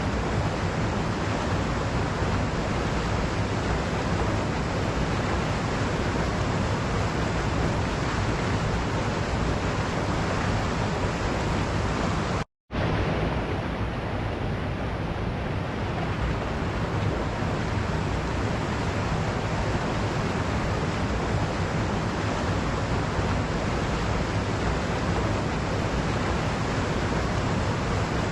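Waterfall rushing in a steady, even roar of falling water, cut by a sudden brief silence of under half a second about twelve seconds in.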